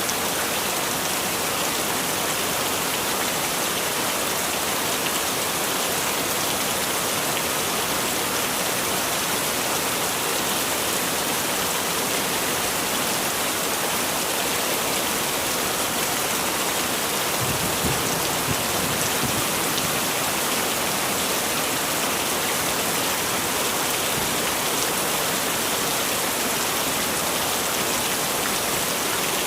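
Heavy rain falling in a steady, dense hiss, with a brief low rumble a little past the middle.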